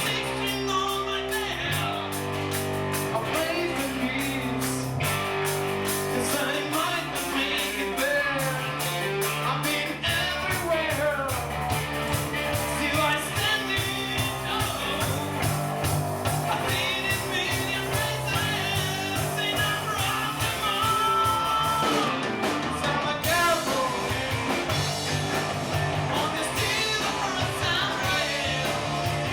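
Rock band playing a song live, with a singer over electric guitar, bass and a steady drum beat.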